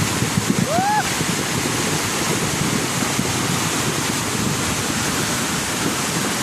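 Floodwater rushing along a street: a steady, loud rush of water. A brief rising pitched sound comes about a second in.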